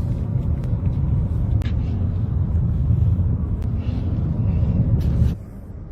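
Steady low rumble of a car driving, with a few faint clicks; it drops away abruptly about five seconds in.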